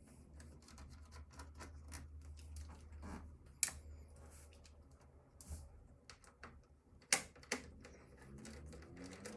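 Scattered light clicks and taps of a screwdriver and screws working on a computer case during disassembly. Two sharper clicks come about three and a half and seven seconds in, over a low steady hum.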